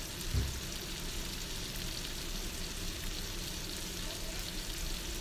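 Shrimp, squid and siomay sizzling steadily in hot oil in a wok. There is a brief low thump about half a second in.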